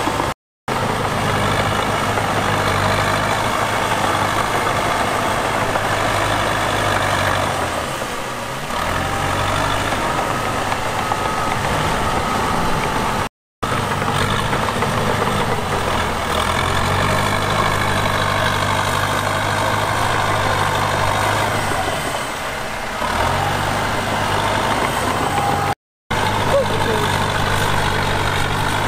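Heavy diesel machinery engine running under load. The engine note drops and picks up again twice. The sound cuts out for a moment three times.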